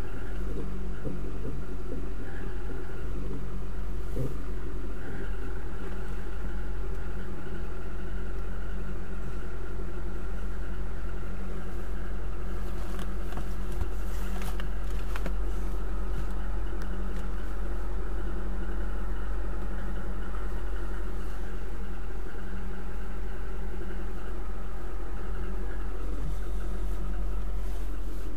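Lada Kalina wagon's four-cylinder petrol engine idling steadily, heard from inside the cabin; the engine is still cold after a start in severe frost.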